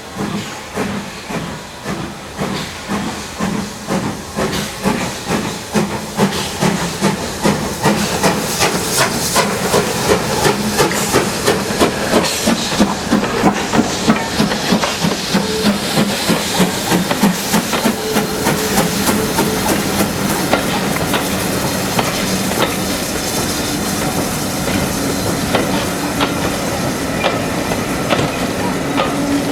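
Steam locomotive working as it pulls away: loud, rhythmic exhaust chuffs with hissing steam, quickening and growing louder until the beats run together.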